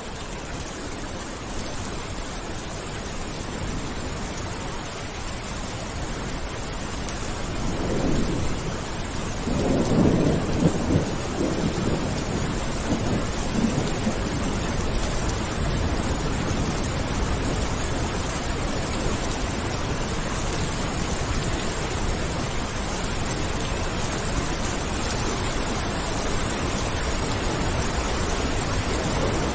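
Steady heavy rain with a roll of thunder that swells about eight seconds in, peaks a few seconds later and rumbles away, the rain continuing.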